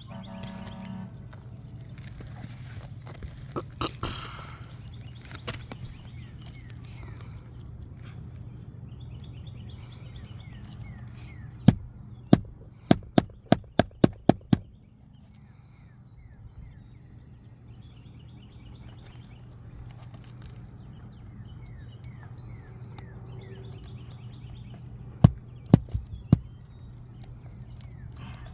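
A run of about eight sharp knocks in quick succession in the middle, then three more near the end, over a steady low hum with birds chirping.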